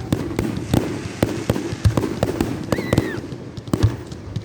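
Fireworks and firecrackers going off in a rapid, irregular string of sharp bangs and pops, several a second.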